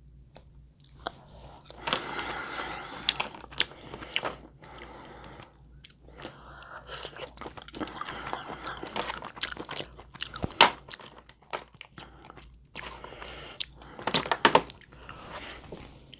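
Close-up eating sounds: chewing and biting into seafood-boil food, with irregular sharp clicks and crunches.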